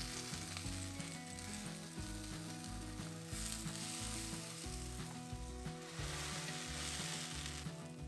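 Bread slices sizzling as they fry in a hot cast-iron skillet.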